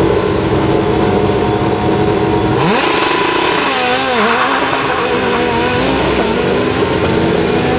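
Rally car engine running steadily at the start line, then revving up about two and a half seconds in as the car pulls away, its note rising, dipping and rising again as it accelerates off.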